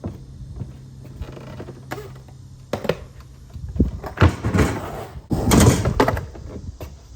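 Skateboard knocks and clacks, several sharp impacts of the board, then a louder scraping run lasting under a second about five and a half seconds in, as from the board sliding or grinding.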